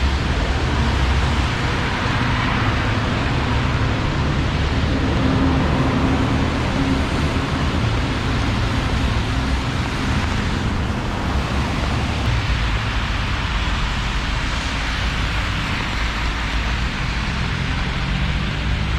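City street traffic: vehicle engines running with steady road noise.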